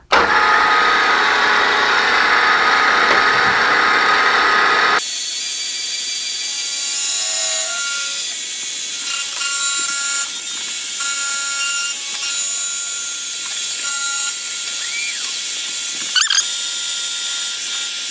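Milling machine cutting metal with a 3/4-inch carbide end mill at about 2000 rpm, with mist coolant spraying: a loud, steady cutting noise. About five seconds in the sound changes abruptly to a hissier, higher-pitched cut.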